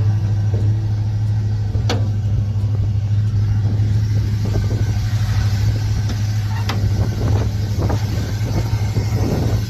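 Car engine running steadily with a deep, even hum, from a 1951 Chevrolet Deluxe fitted with a 305 V8.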